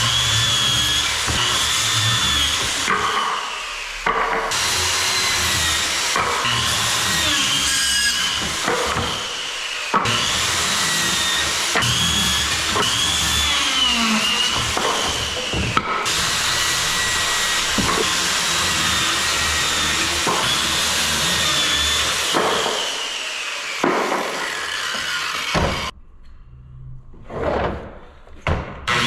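Power saw cutting 2x4 lumber into pointed stakes, a run of cuts with the motor whine rising and falling as it works through the wood. The sawing stops about three seconds before the end, leaving a few short sounds.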